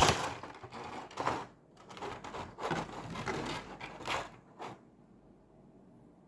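Plastic accessory packaging being opened and handled: irregular crackling and rustling with a sharp snap at the start, dying away about five seconds in.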